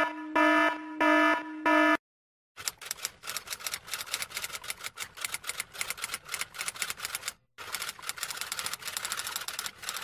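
Three short electronic beeps, then, after a clean break, a fast run of typewriter-like clicking at about ten clicks a second, with one brief gap past the middle.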